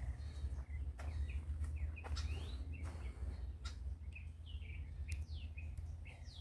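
Small birds chirping: many short, quick chirps that slide up or down, scattered throughout, over a steady low rumble, with a few sharp clicks.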